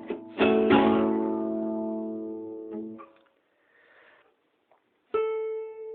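A guitar chord (second string seventh fret, third string sixth fret, fourth string seventh fret, open first string) strummed once about half a second in and left to ring until it dies away. A few seconds of near silence follow, then near the end a single note on the first string at the fifth fret is plucked and rings.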